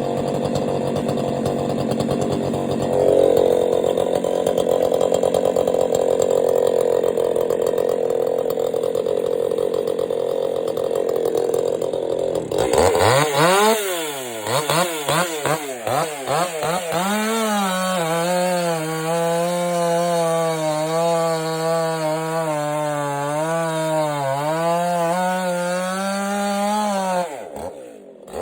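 Ported Stihl MS261 two-stroke chainsaw with a custom exhaust, not yet broken in or fully tuned. For about the first twelve seconds it runs under load in a cut. It then free-revs, blipping the throttle up and down several times, and holds at high revs with a slight waver, dropping briefly near the end before revving up again.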